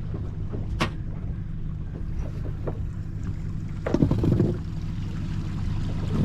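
Small boat's engine running steadily with a low hum, with a sharp click about a second in and a brief louder burst of noise about four seconds in.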